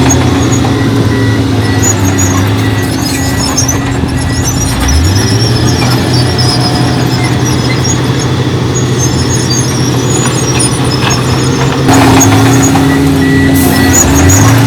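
Diesel engines of heavy earthmoving machinery running under load, with the engine pitch rising as one revs up about five seconds in and again near the end. Intermittent high squeaks sound over the engines.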